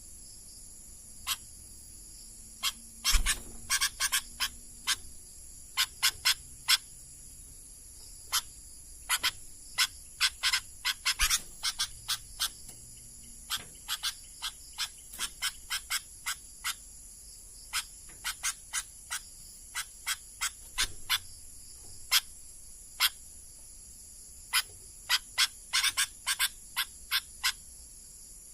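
Sooty-headed bulbul giving short, sharp call notes, scattered irregularly and now and then in quick clusters, over a steady high-pitched drone.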